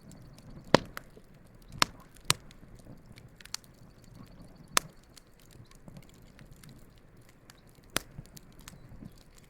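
Campfire of burning wood crackling, with about six sharp pops from the burning logs over a low steady hiss of flames.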